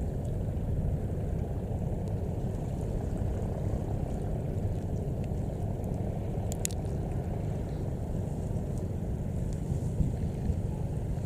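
Steady low rumble of a boat engine on the river, with a brief click about six and a half seconds in.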